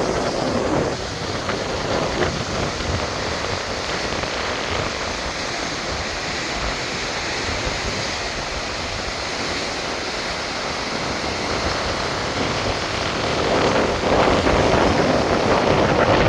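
Steady rush of moving water, an even noise with no speech, growing a little louder near the end.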